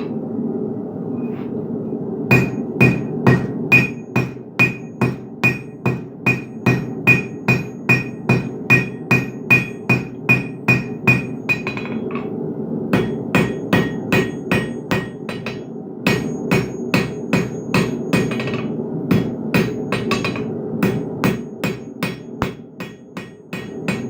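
Blacksmith's hammer striking metal on an anvil in steady rhythmic blows, roughly two a second, each with a bright ring; the blows start a couple of seconds in, break off briefly about halfway, then resume. A steady hum runs underneath.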